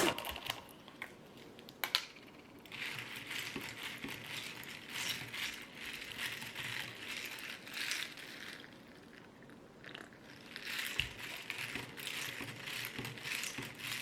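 Intermittent crinkling and rustling of something being handled, with a few light clicks near the start.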